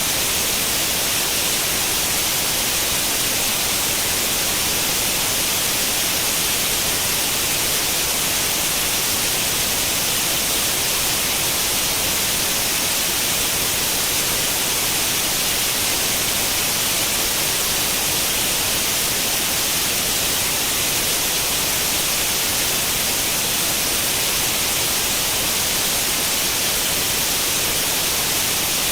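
Steady white noise in imitation of the static hiss of an old cathode-ray tube television tuned to no channel, brighter in the upper frequencies and unchanging throughout.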